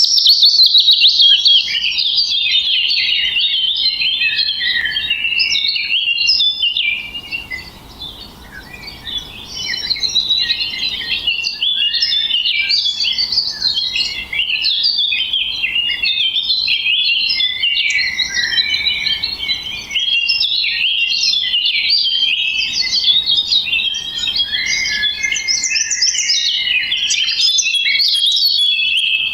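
Songbirds chirping and twittering in a dense, continuous stream of short, quick high calls, with a brief lull about eight seconds in.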